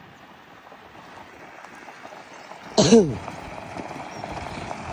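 Outdoor background noise, broken about three seconds in by one short, loud call from a voice whose pitch rises and then falls. The background noise then grows steadily louder.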